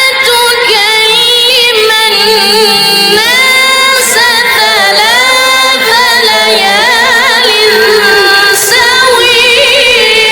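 Melodic Quran recitation by a single high-pitched voice, drawing out long held notes with wavering ornaments, with short breaks between phrases.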